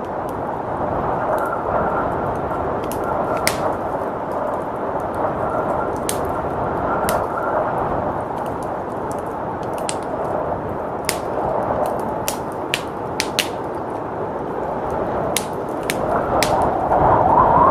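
Wood fire crackling with scattered sharp pops over a steady blizzard wind, the wind swelling into a louder gust near the end.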